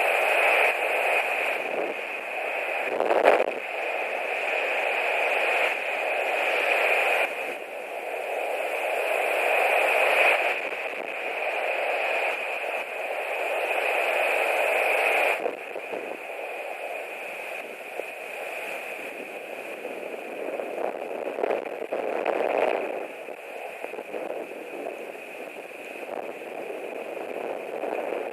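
Strong gusting wind buffeting a nest-camera microphone, swelling and easing every few seconds as gusts come and go. A sharp knock sounds about three seconds in.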